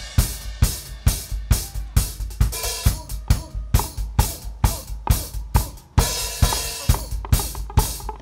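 Drum kit played live in a steady beat, about two hits a second, with bass drum, snare and crashing cymbals; the playing drops out briefly about six seconds in, then comes back in.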